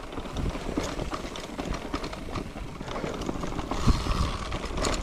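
Wind rumbling on the microphone and road noise during a ride, with scattered clicks and rattles throughout.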